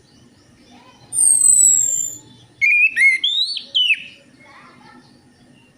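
Orange-headed thrush song for a lure recording: a thin, very high whistle that falls slightly, then a quick, varied warbled phrase that swoops up and down.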